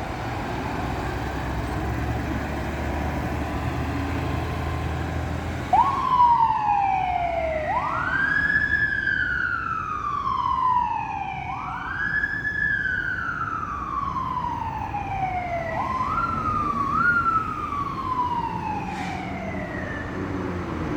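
Fire engine idling or moving with a low engine rumble, then about six seconds in its siren starts wailing. Each sweep rises quickly and falls slowly, about four seconds apart, with two short quick rises near the end.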